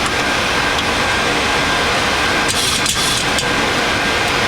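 Steady rush of airflow and air conditioning on the flight deck of a Boeing 737 MAX on final approach with landing gear down and flaps set. A brief higher hiss joins it about two and a half seconds in.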